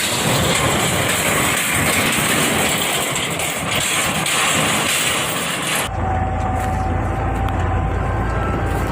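A heavy tractor engine running loud with a rough, noisy clatter. About six seconds in the sound changes abruptly to a deeper, steadier engine rumble with a faint whine over it.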